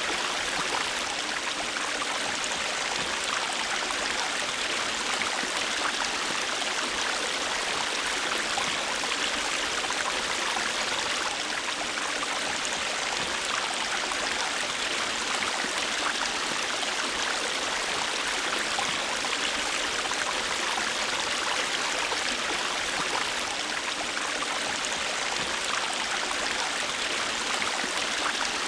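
River water flowing steadily over rocks, a continuous even rush with fine splashing and trickling detail.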